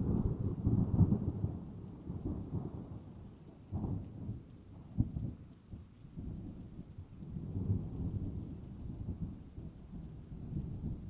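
Thunder rumbling in long rolling waves over rain. It starts suddenly, with sharper cracks about four and five seconds in and another swell of rumble near eight seconds.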